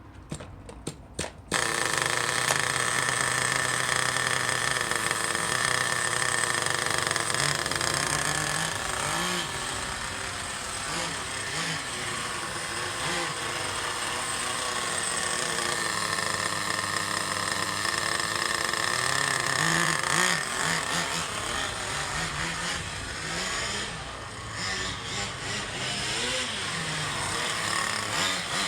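Small nitro engine of a radio-controlled car running with a high, buzzing tone, its pitch rising and falling several times as the throttle is worked. A few sharp clicks come just before the engine sound starts, about a second and a half in.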